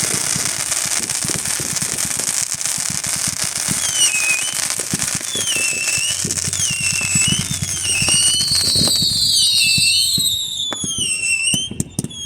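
Fireworks crackling with a rapid stream of pops. From about four seconds in, whistling fireworks add repeated high whistles that dip in pitch, many of them overlapping near the end.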